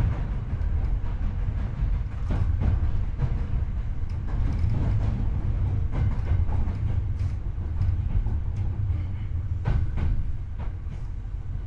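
Hankyu 8300 series train heard from the car floor over the bogie: a steady low rumble of wheels on the track, with several sharp clacks from rail joints at irregular intervals, getting a little quieter near the end.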